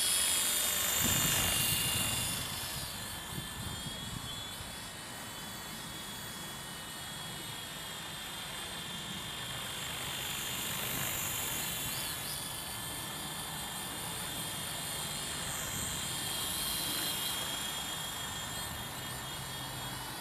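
WL Toys Sky Dancer single-blade RC helicopter in flight: its electric motor and rotor give a steady high-pitched whine. It is louder for the first couple of seconds, then settles lower and swells gently a few times.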